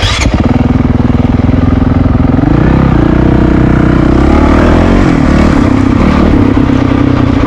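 Honda CRF450RL dual-sport motorcycle's single-cylinder engine running under throttle, its pitch stepping up about two and a half seconds in and then holding steady.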